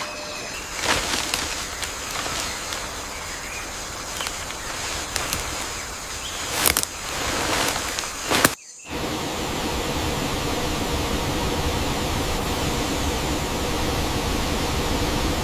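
Outdoor ambience with scattered sharp clicks and crackles. It cuts off abruptly about eight and a half seconds in, and after that a steady, even noise with a faint hum runs on.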